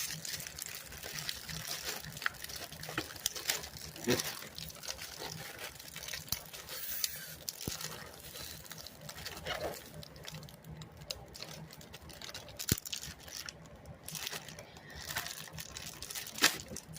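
Plastic snack packaging of Nutter Butter cookies being handled and opened: scattered crinkling, rustling and tearing with sharp little clicks and crackles throughout.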